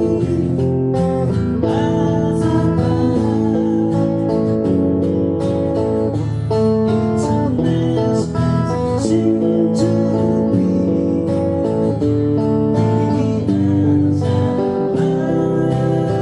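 Music led by guitar, plucked notes and chords played continuously.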